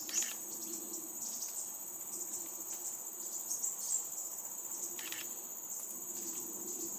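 Steady high-pitched insect drone, with short sharp chip calls from a fledgling crimson sunbird twice, near the start and about five seconds in, the young bird calling at regular intervals to let its parents know where it is.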